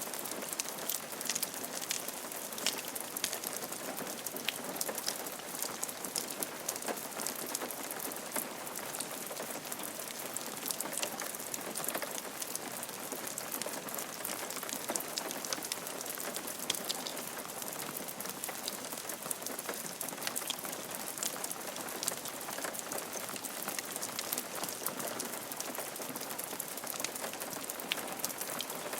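Steady rain falling on a roof, an even hiss with many sharp individual drop ticks scattered through it.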